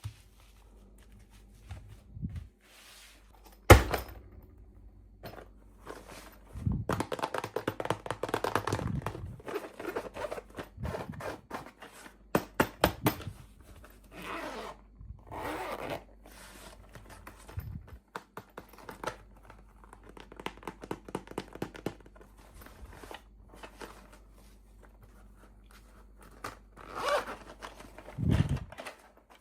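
Toy packaging being opened and handled: a sharp knock about four seconds in, then stretches of crinkling, tearing and clicking plastic and paper.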